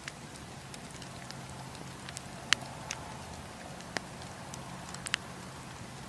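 Wood campfire crackling: a steady hiss of flames with scattered sharp pops and cracks from the burning wood, the loudest about two and a half seconds in.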